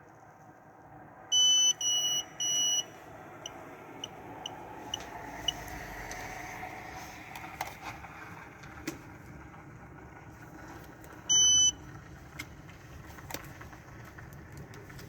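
Three loud electronic beeps in quick succession, then a run of short faint beeps about two a second, and one more loud beep later on, over the low steady hum of a vehicle.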